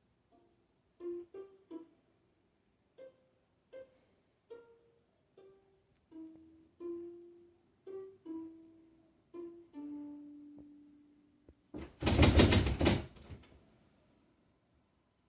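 A ukulele picked one note at a time in a slow, halting melody, ending on a longer low note. About twelve seconds in, a loud harsh noise lasting about a second and a half cuts across it, louder than the playing.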